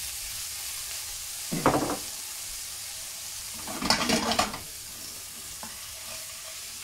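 Egg and frozen peas sizzling steadily in oil in a non-stick pan, with a spatula stirring and scraping against the pan twice, about a second and a half in and again around four seconds in.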